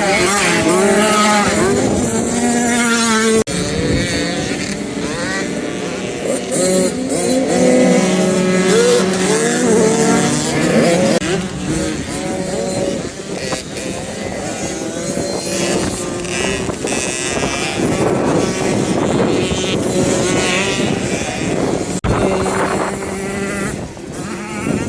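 Several motocross bikes revving up and down as they ride the track, their engine notes overlapping and rising and falling in pitch. The sound changes abruptly about three and a half seconds in and again near the end.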